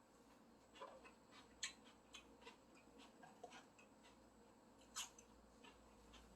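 Near silence with scattered faint clicks and taps of eating at a table, the clearest about one and a half and five seconds in.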